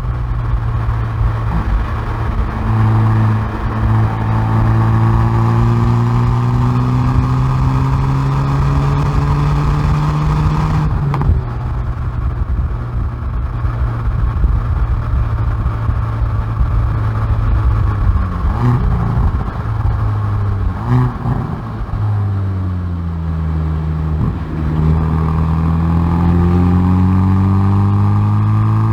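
Hyundai i30N Performance's turbocharged 2.0-litre four-cylinder exhaust, heard from the rear bumper, pulling hard under acceleration with the note climbing steadily. About eleven seconds in there is a sharp crack and the note changes. From roughly eighteen to twenty-two seconds the engine comes off load with a few sharp cracks, then it climbs again under full throttle.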